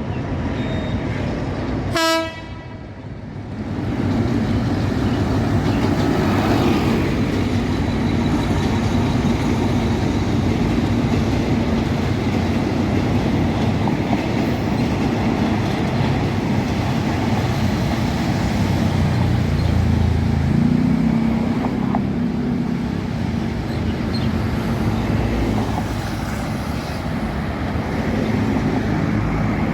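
A brief horn blast from an Alsthom diesel-electric locomotive about two seconds in, then the steady rumble of the moving train.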